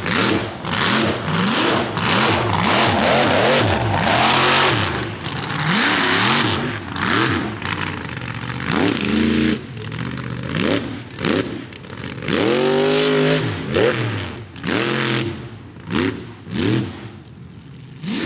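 Ford mega truck's engine revved hard in repeated throttle bursts, its pitch climbing and dropping about once a second. A loud rushing noise rides over it during the first few seconds.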